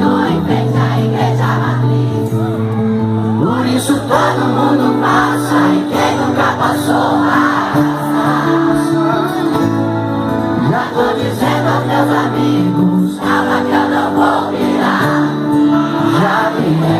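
Live band music with singing and many voices singing along; held chords and bass run under the wavering vocal line.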